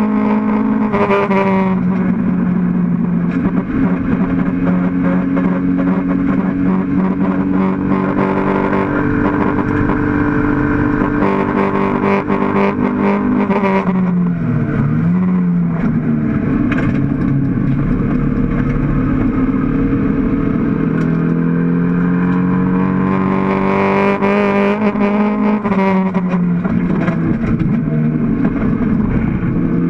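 Mk1 Toyota MR2 race car's mid-mounted four-cylinder engine running hard under load, heard from inside the stripped cabin. The revs hold steady for long stretches, drop about a second and a half in, dip sharply and pick back up about halfway, and drop again near the end.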